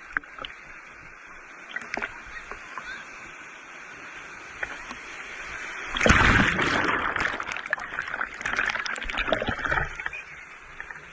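Surf on a sandy beach: a steady wash of waves, then a louder wave breaking about six seconds in and rushing up the sand for about four seconds.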